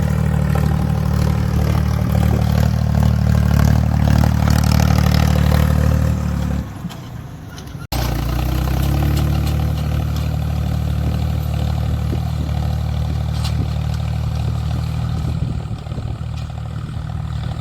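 Ford 3600 tractor's three-cylinder engine running steadily, easing off about six and a half seconds in, then cutting abruptly and picking up again with the same steady running.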